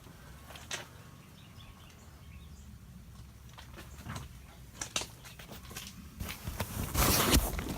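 Footsteps on the ground with scattered scuffs and clicks, a louder scuff near the end, and faint bird chirps.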